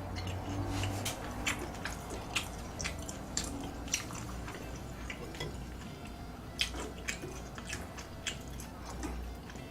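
A person chewing food close to the microphone, with irregular clicks and smacks of the mouth.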